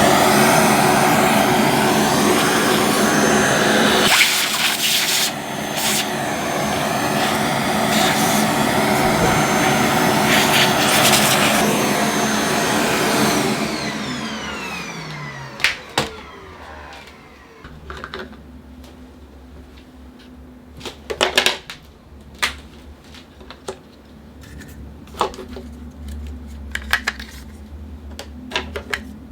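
A small high-speed electric motor running loudly, then spinning down with a falling whine about 13 seconds in. Scattered clicks and knocks follow.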